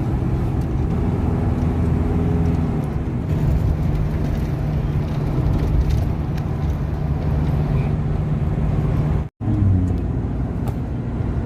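Car engine and road noise heard from inside a moving vehicle, a steady low hum. It cuts out abruptly for a moment about nine seconds in, then resumes.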